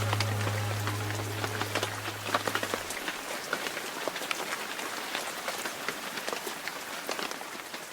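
Sound of rain falling, a patter of many small drops. A held low note under it stops about three seconds in, and the rain fades toward the end.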